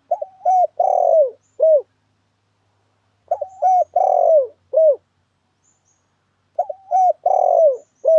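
Spotted dove cooing, three phrases about three seconds apart, the last cut short. Each phrase has a few short coos around a longer, drawn-out coo that falls away at its end. This is the bird's calling song, used here as a lure call for trapping.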